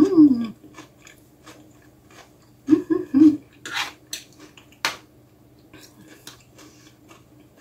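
A person chewing a mouthful of vinegret (beet salad), with soft wet mouth clicks and lip smacks. There are short hummed "mm" sounds at the start and about three seconds in, and a few sharper clicks a little later.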